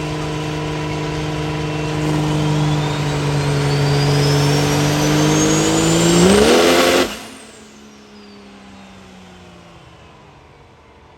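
Diesel truck making a full-throttle pull on a chassis dyno. The engine note holds under load while a high whine climbs steadily. About six seconds in the revs flare up, and just after that the throttle is cut. The engine and dyno rollers then wind down, with a fading, falling whine.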